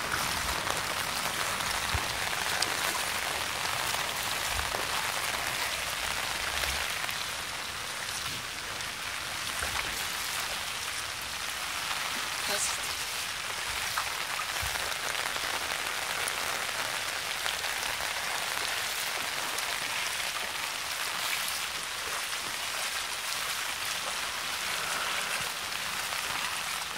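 Heavy rain falling steadily: a constant hiss with scattered sharp drop ticks.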